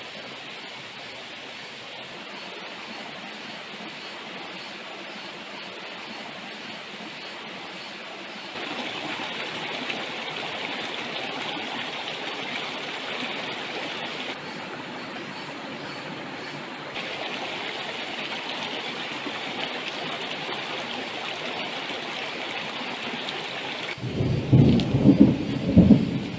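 Heavy rain pouring steadily, with its level jumping up or down abruptly a few times. Near the end a loud, low rumble of thunder comes in.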